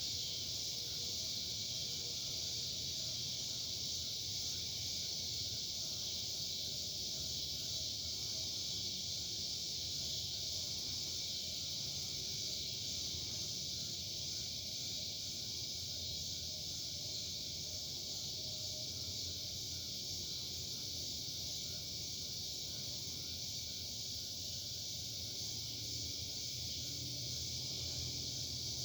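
Steady chorus of insects such as crickets or cicadas, a continuous high-pitched shrill drone without a break.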